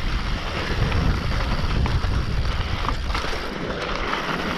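Mountain bike descending a loose dirt trail: tyres rolling and crunching over dirt and rock, with a few short clicks and rattles from the bike, under heavy wind rumble on the microphone.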